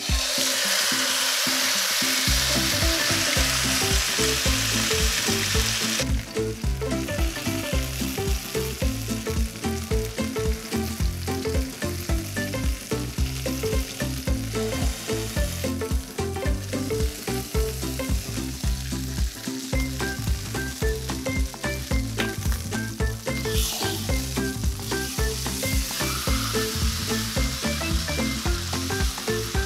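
Whole chicken frying in hot vegetable oil in a frying pan: a loud sizzle as it is laid into the oil, easing after about six seconds to a steady frying hiss as it is moved about with a wooden spatula. Background music plays underneath.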